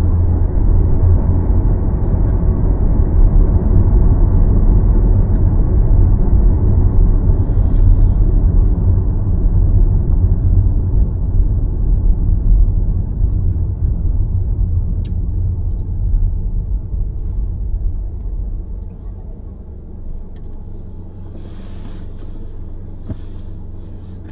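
Car on the move, a steady low road-and-engine rumble that quietens about three-quarters of the way through.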